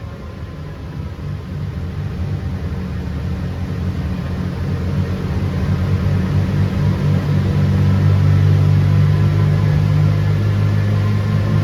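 Toyota Tazz's swapped-in four-cylinder 20-valve engine running at a steady pitch, growing louder over the first several seconds and then holding.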